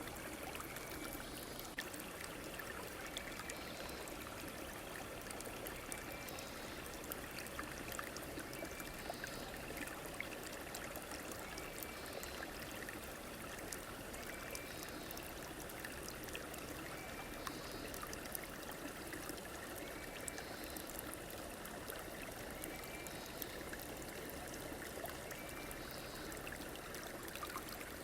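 Stream water flowing and trickling steadily over stones, with a constant fine crackle. A short faint call repeats about every one and a half to two seconds over it.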